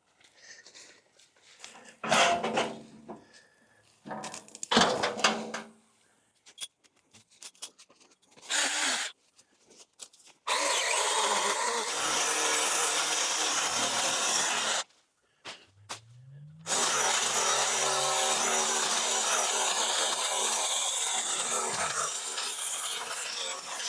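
Brush rustling and snapping in a few short bursts, then a battery-powered cutting tool runs steadily through overgrowth for about four seconds. It stops, spins up again with a rising whine, and runs on steadily.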